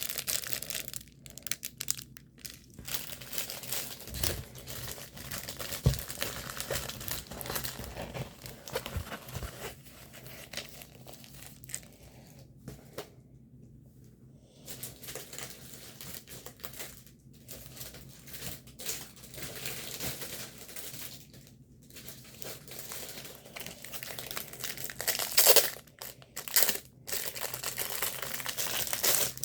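Plastic packaging of a diamond painting kit crinkling and rustling as it is handled and opened, with a short lull a little before halfway and louder crinkles near the end.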